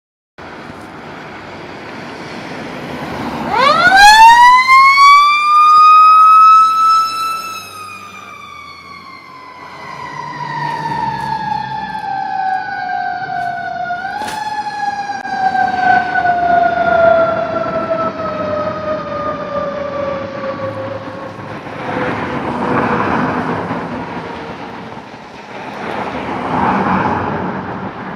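Fire truck siren winding up fast to a loud held wail a few seconds in, then slowly winding down in pitch, with a brief lift partway through. Truck engine and road noise swell twice near the end as the vehicles pass.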